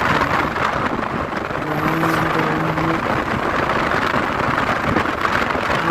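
Motorcycle riding on the road, heard as a loud, steady rush of wind and road noise over the microphone. Under it is the engine's note, held steady for about a second near the middle. The bike is new and on its break-in ride.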